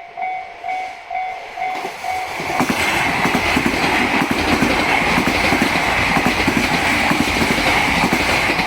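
Japanese level-crossing alarm ringing in a steady two-tone ding about twice a second. From about two and a half seconds in, a JR Hokkaido Gakuen Toshi Line train runs over the crossing, its wheels clattering on the rail joints and drowning out the bell.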